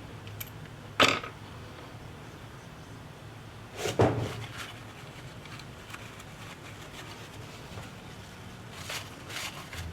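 Two sharp clicks of small hard objects being put down or handled on a work surface, about a second in and about four seconds in, the second the louder. A few softer handling scrapes follow near the end.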